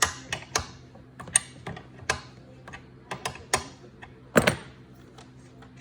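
Metal wrench clicking and clinking on a compressor fitting as it is worked loose: a dozen or so sharp, irregular clicks, the loudest a little past four seconds in.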